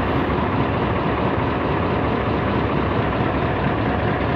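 Heavy diesel engine running steadily at a constant speed, a low, even drone with no change in pitch.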